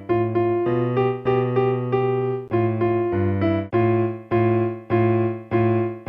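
Electronic keyboard played with both hands: a low bass note held under a higher line of notes, struck in an even practice rhythm of about two notes a second.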